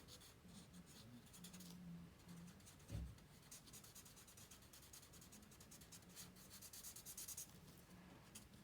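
Faint scratchy strokes of a Stampin' Blends alcohol marker nib quickly colouring over a stamped image on card, with one soft thump about three seconds in.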